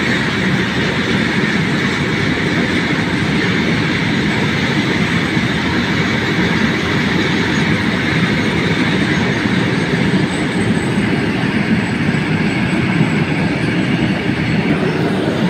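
Goods train of open-top freight wagons rolling past on the rails: a steady, unbroken rumble of wheels on track.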